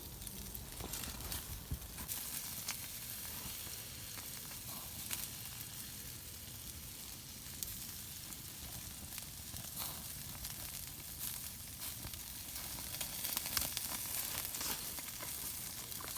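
Food sizzling in a hot pan over a camp fire, a steady hiss with scattered small pops.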